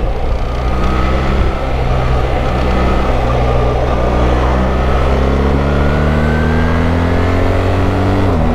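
BMW R1300GS's 1300cc boxer twin pulling hard in third gear, its revs climbing steadily, then dropping sharply near the end as the shifter changes up a gear. Wind noise rushes underneath.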